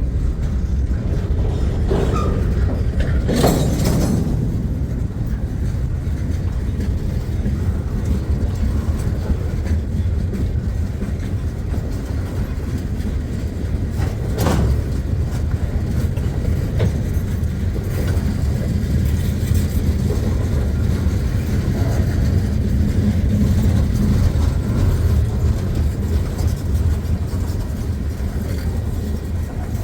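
Long freight train rolling past: a steady rumble of steel wheels on the rails, with two brief sharp metallic noises, one about three seconds in and one about fourteen seconds in.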